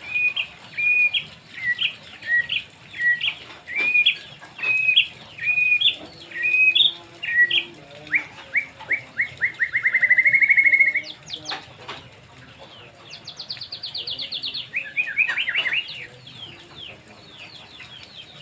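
White-rumped shama singing a varied whistled song. It opens with a string of repeated two-note phrases, then a run of rising notes that quickens into a trill, and after a short pause gives fast trills and falling notes.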